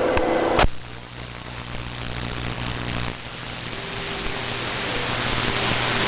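CB radio receiver static between transmissions: a sharp click a little over half a second in as the other station's signal drops, then an even hiss that slowly grows louder, with a low steady hum under it.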